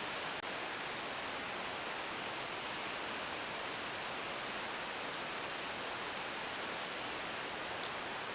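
Steady, even hiss with a faint thin high whine above it, unchanging throughout: the self-noise of a camera's microphone and electronics.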